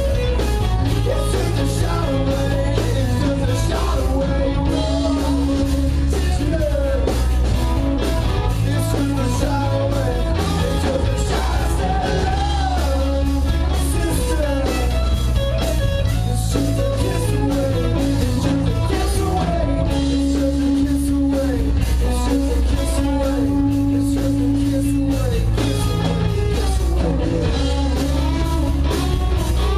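Live rock band playing: electric guitar, bass and a steady drum beat, with a singer.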